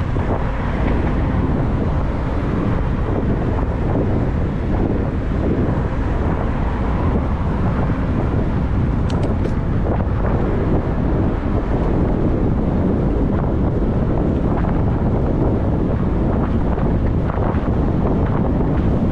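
Steady wind buffeting the microphone as the e-bike moves at speed, a dense low rushing noise, with a couple of faint short ticks about nine seconds in.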